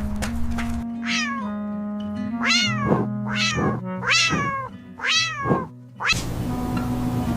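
A cat meowing over background music: about five meows, each falling in pitch, one after another. About six seconds in the meows stop and a steady rushing noise comes in under the music.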